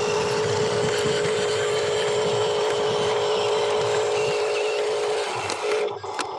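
Small electric motor and gearbox of a toy RC construction vehicle running with a steady whine. It stops about five seconds in and starts again briefly.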